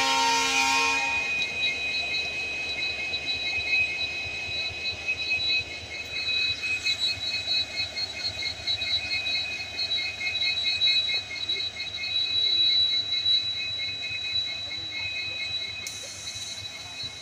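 Indian Railways passenger train at a station: a horn blast ends about a second in, then the coaches roll past with a steady high-pitched whine over a low diesel rumble, the whine pulsing between about six and fourteen seconds in.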